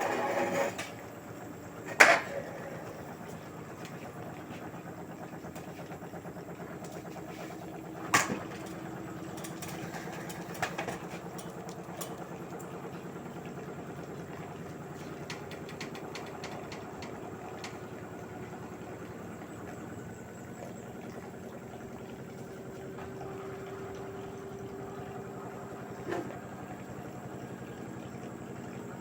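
LG 8 kg direct-drive washing machine running a Cotton 60°C cycle: a steady motor hum with a faint whine as the drum turns, broken by a few sharp knocks, the loudest about two seconds in.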